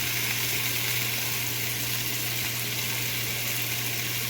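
Chicken kebab skewers sizzling steadily in hot oil as they are pan-seared to seal in the juices, over a steady low hum.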